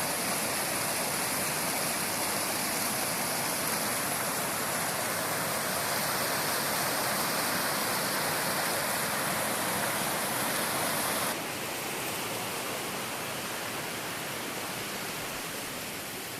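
Waterfall rushing: a steady wash of falling, splashing water that drops slightly in level about two-thirds of the way through.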